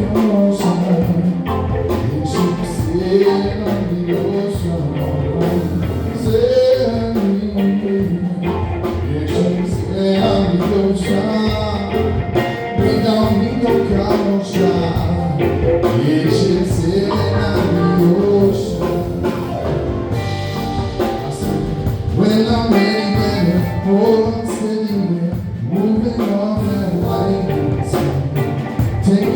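Live reggae band playing a song, with a singer's vocals over the band.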